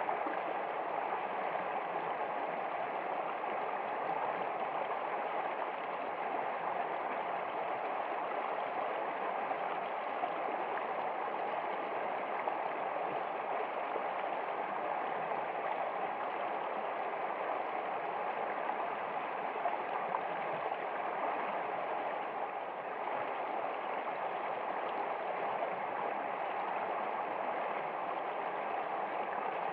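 Water flowing steadily in a small stream, an even, unbroken babbling.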